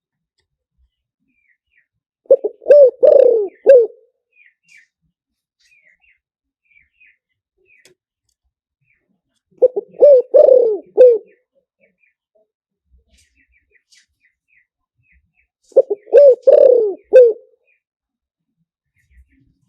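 Spotted dove cooing: three phrases of four or five coos each, about six seconds apart. It is a decoy call used to lure wild spotted doves.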